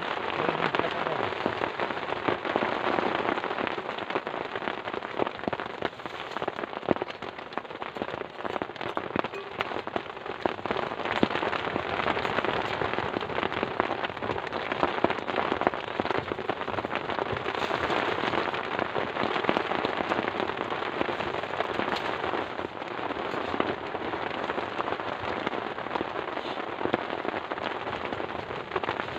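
Heavy rain falling without a break, a dense patter of drops hitting a close surface.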